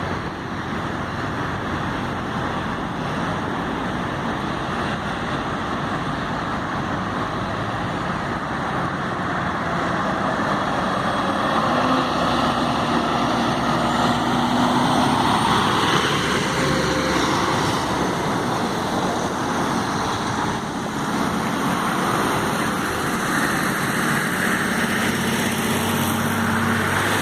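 Scania F360HA bi-articulated bus running, with engine and road noise. About halfway through the engine note climbs and holds as it pulls harder, and this is the loudest part; a similar engine note returns near the end.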